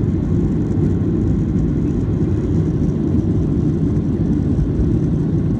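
Airplane engine noise heard from inside the cabin: a steady, loud, low drone with no change in pitch.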